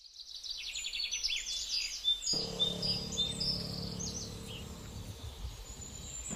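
Birds chirping: many short, high, quick calls repeating over one another. About two seconds in, a low steady hum of outdoor background noise comes in under them.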